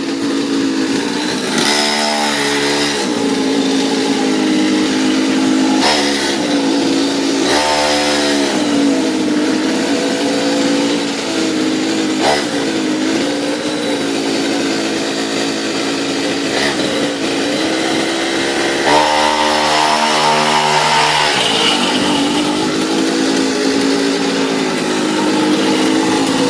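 Mini motorcycle's small petrol engine running steadily, revving up in short bursts three times: about two seconds in, about eight seconds in, and for a longer stretch about nineteen seconds in.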